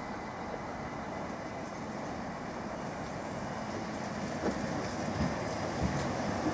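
Class 377 Electrostar electric multiple unit approaching along the platform, its running noise growing steadily louder as it nears, with a few knocks from the wheels on the track from about four and a half seconds in.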